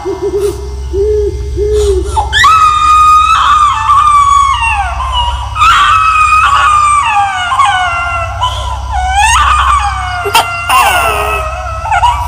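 Horror sound effect of a ghostly baby crying: long, high wails that slide down in pitch, one after another, over a steady low drone.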